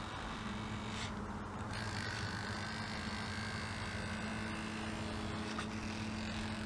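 Small electric motor from a standard servo, driving an RC longtail boat, running with a steady whine. A second, higher tone comes in about two seconds in.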